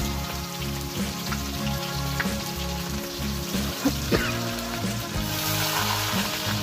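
Food sizzling as it fries in oil in a cooking pan, with a couple of sharp clinks about four seconds in.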